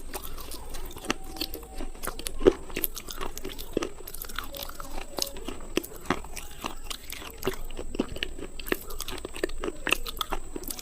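Slate pencil pieces being bitten and chewed: a steady, irregular run of sharp, dry crunches and snaps, several a second.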